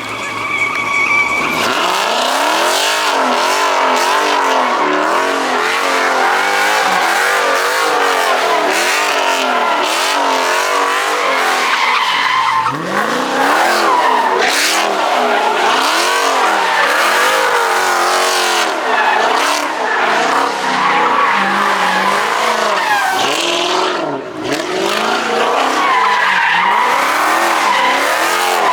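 Car spinning its tires in a sustained slide, the engine revving up and down over and over, about once a second, under continuous tire squeal.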